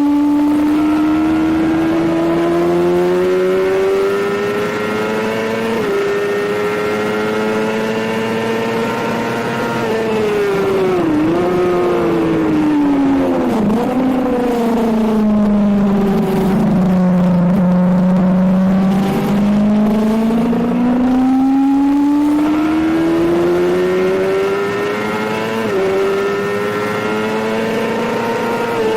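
Suzuki GSX-R750 K7 inline-four engine under hard acceleration on track, its pitch climbing through the gears with an upshift about six seconds in. Around eleven to fourteen seconds in it drops sharply through downshifts with short blips under braking, runs low through a corner, then climbs hard again with another upshift near the end before backing off.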